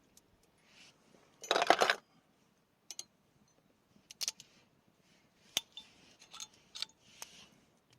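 A loud scraping rustle lasting about half a second, followed by a scatter of sharp light clicks and clinks, like small gear being handled.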